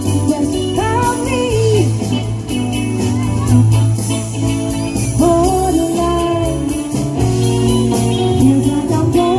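Live cover band playing 1980s pop-rock: a lead singer over electric guitar, bass and a steady drum beat.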